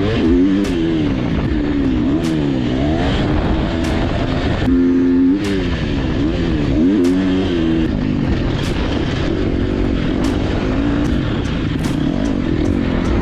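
Dirt bike engine revving up and falling back again and again as the throttle is worked around the track, its pitch climbing and dropping every second or so. The engine holds one steady pitch briefly about five seconds in.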